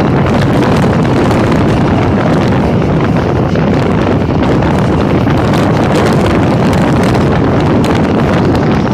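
Passenger train running at speed, heard from an open window, with a loud steady rush of wind buffeting the microphone over the rumble of the wheels on the rails.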